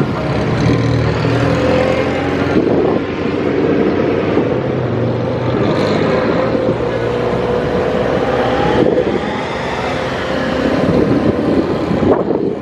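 Car engine running with heavy road and wind noise, as heard from a car being driven.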